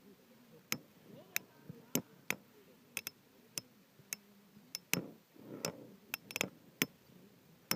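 Beyblade spinning tops clashing in a battle stadium: a string of sharp, irregular clicks and clinks, about two a second, as the tops strike each other and the stadium wall.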